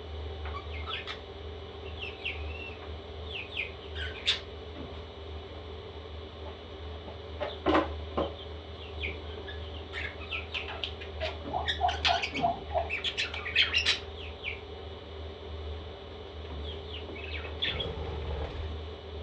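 Baby parrots chirping and squawking in short, scattered calls, with a flurry of calls about two-thirds of the way through. A steady low hum runs underneath.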